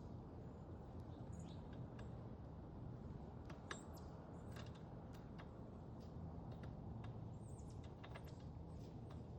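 Small songbirds at a backyard feeder: faint, scattered short high chirps and light clicks, over a steady low background rumble.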